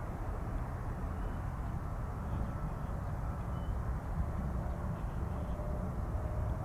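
Jet engines of a Boeing 777-300ER (GE90-115B turbofans), a steady low rumble, with a faint whine starting to rise near the end.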